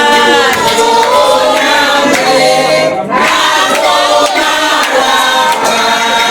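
A group of voices singing together unaccompanied, several held notes sung at once, with a short break about three seconds in.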